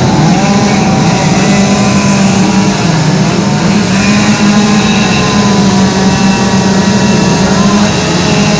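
Chainsaws running as they carve wood, several engines at once, their pitch wavering up and down as they cut.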